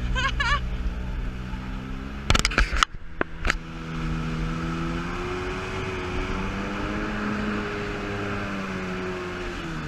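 Yamaha GP800 jet ski's two-stroke twin engine running steadily under way, its pitch drifting slightly up and down. A few sharp knocks come between about two and three and a half seconds in.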